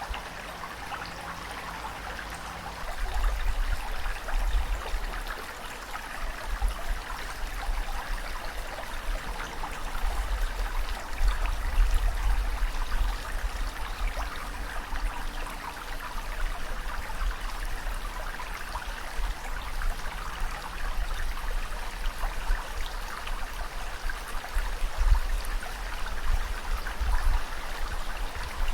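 Ocean waves washing continuously: a steady rushing hiss with a deep rumble that swells up several times as the surf surges.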